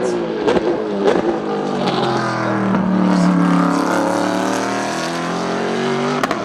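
Group C sports-prototype race cars going by at speed, several engines running at high revs at once, their pitch rising and falling as they shift and pass. There are a few sharp cracks about half a second in, at about one second, and near the end.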